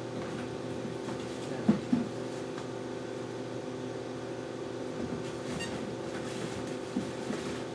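A steady low machine hum, with a few light knocks: two close together about two seconds in and another near the end.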